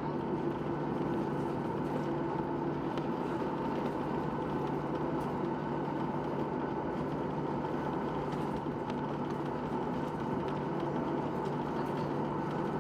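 Steady engine drone heard from inside a vehicle, with a few constant hum tones and no change in pitch or level.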